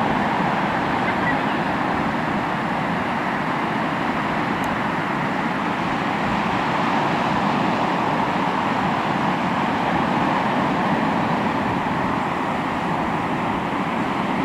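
Sea waves washing onto the shore: a steady wash of surf that swells and eases slowly.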